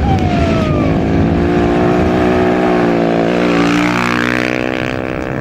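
A motor vehicle engine running steadily under load, its pitch sagging slightly about three seconds in and then holding.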